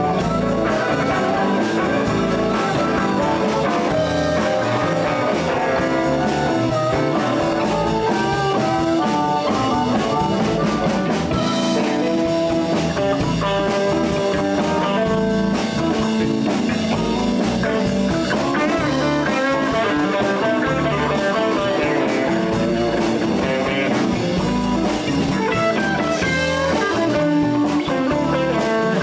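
Live blues band playing an instrumental break: electric guitars with drums and bass keeping a steady groove, no vocals.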